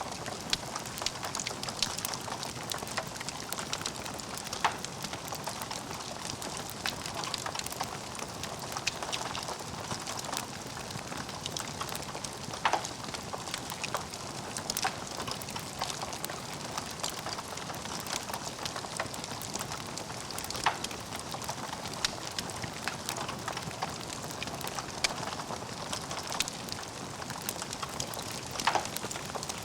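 Wood fire burning in a fireplace, crackling steadily with frequent small snaps and a few louder pops.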